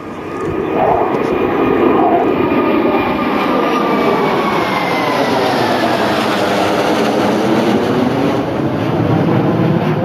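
Jet fighters of the Russian Knights team, Su-27s, flying past with a loud engine roar that builds over the first second or two and then holds. A whine within it falls slowly in pitch as the jets go by.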